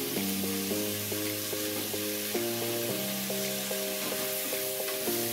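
Raw chicken pieces sizzling in spice paste in a hot non-stick wok, a steady frying hiss. A melody of short notes from background music plays over it.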